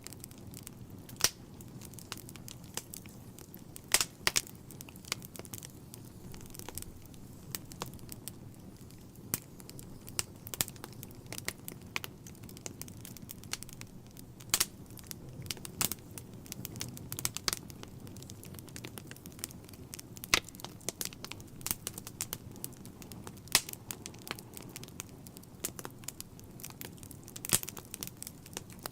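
Wood fire burning in a fireplace: a steady low rumble of flames with irregular sharp crackles and pops, a few louder pops scattered through.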